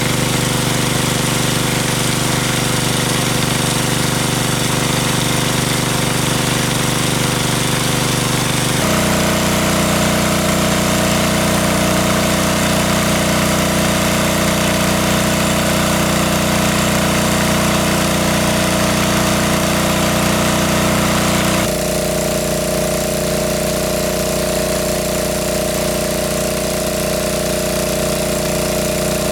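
A small engine running steadily, its tone changing abruptly twice, about a third of the way in and again about three quarters of the way in.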